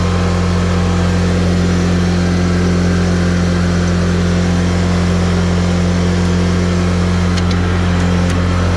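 Exmark Lazer Z HP zero-turn mower's 25 hp Kohler Command Pro V-twin engine running steadily at raised throttle, blades not yet engaged. A couple of faint clicks come near the end.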